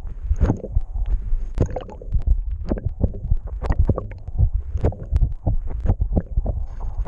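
Water rushing and sloshing heard underwater, muffled, with a steady low rumble and irregular knocks and thumps several times a second.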